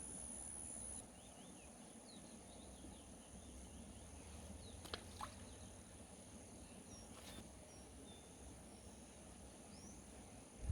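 Faint natural ambience: insects trilling steadily in a high pitch, the loudest trill dropping away about a second in, with scattered short bird chirps and a couple of small clicks about five seconds in.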